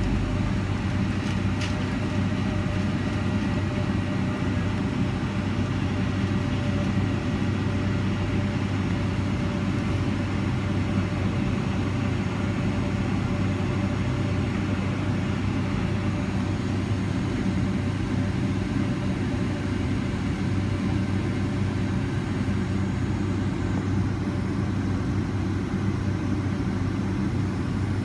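Boeing 757-200's twin jet engines running steadily, heard inside the cabin as a constant low rumble with a steady whine on top.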